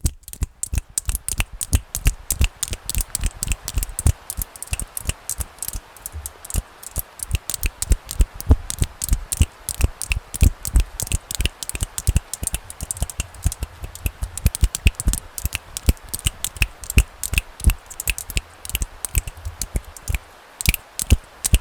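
Fast, irregular finger clicks, several a second, each a sharp click with a low thud, over a faint steady hiss. The clicks pause briefly near the end.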